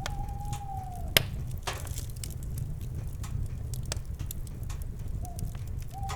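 Campfire crackling with scattered pops, one sharp loud pop about a second in, over a steady low rumble. An owl gives a long, held hoot that dips at its end at the start, and calls again near the end.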